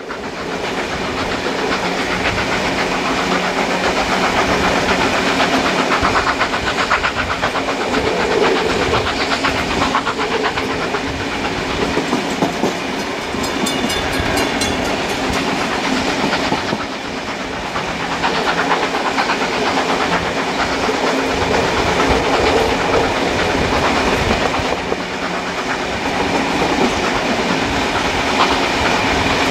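Steam-hauled train running along the line, heard from a carriage window: a steady clickety-clack of wheels over the rails and the noise of the moving train, loud throughout.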